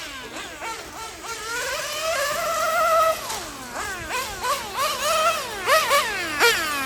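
Nitro RC car's O.S. Speed R2103 engine revving up and down as the car is driven round a track, with a longer high-pitched pull about two seconds in that drops away, then a string of short throttle bursts.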